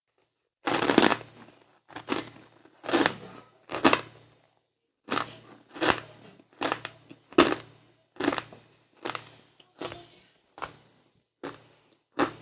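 Close-miked chewing of crunchy snacks: a steady run of crunches, one about every three-quarters of a second, beginning about half a second in.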